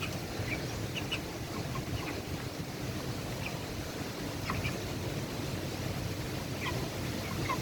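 Broiler chickens giving short, scattered peeps over a steady low rumble of wind.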